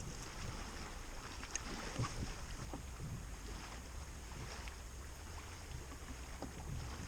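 Wind buffeting the microphone over the faint sound of water against a kayak, with a few light knocks and ticks.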